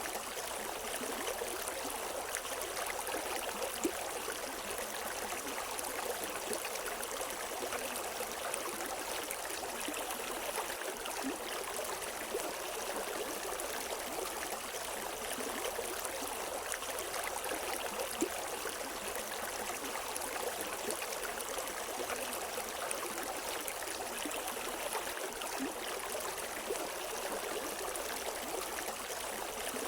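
River water running steadily over rocks, an even rushing and splashing with no birds.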